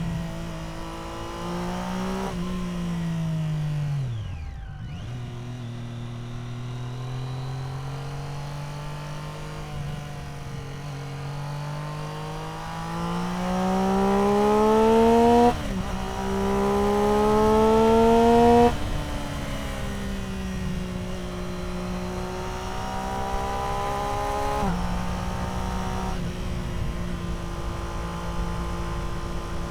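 Triumph Street Triple R's three-cylinder engine through an Arrow exhaust while riding. Revs fall steeply about five seconds in. Then the engine pulls hard twice with rising pitch, and each pull ends in a sudden drop in revs, as at a gear change, about halfway through and again a few seconds later. It then settles into steady cruising. The two pulls are the loudest part.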